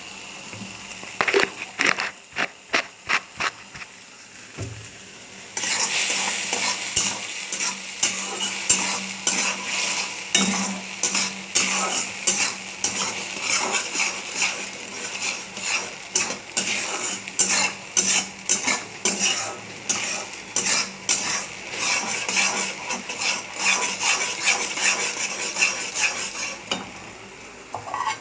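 A spoon stirring and scraping suji (semolina halwa) in a pan after sugar has been added, with repeated clinks against the pan. From about five seconds in, a steady sizzle runs under the scraping.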